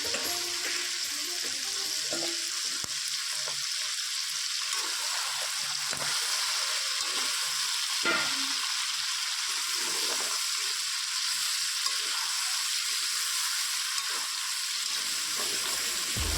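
Chicken sizzling steadily as it dry-fries in oil in a pan, stirred now and then, with a sharper scrape of the spatula about eight seconds in.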